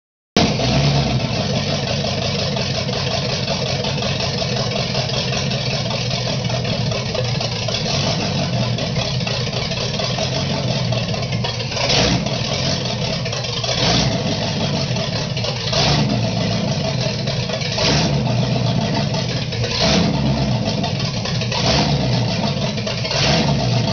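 Chevrolet 350 small-block V8 with throttle-body injection, in a 1951 Chevy 3100 pickup, running on its first start-up. It runs steadily at first, then the throttle is blipped briefly about every two seconds through the second half.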